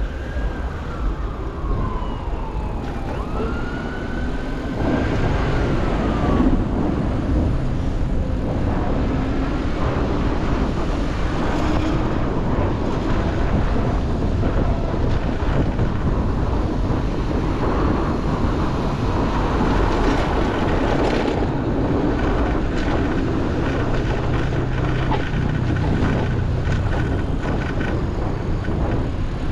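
An emergency vehicle's siren wailing, its pitch sweeping up and down for the first several seconds and then fading, over a steady rumble of city street traffic.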